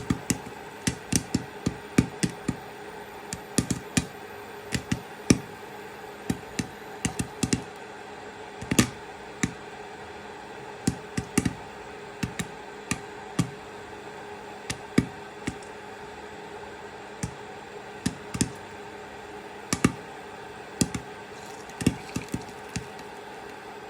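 Popcorn kernels popping in a pan: irregular sharp pops, roughly two a second and uneven in loudness, over a steady low hiss.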